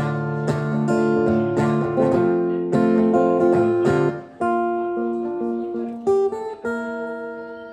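Acoustic guitar closing out a song: strummed chords for about four seconds, then a few softer plucked notes that ring on and fade away.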